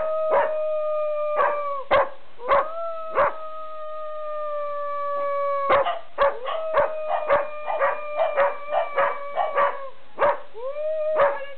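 Dogs howling and barking: long howls, each held for a few seconds and sliding slowly down in pitch, with short sharp barks between and over them, coming faster in the second half.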